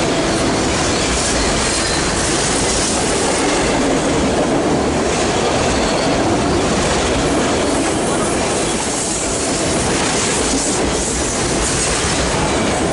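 Long freight train's cars rolling past close by: steady, loud noise of steel wheels on rail, with some wheel squeal.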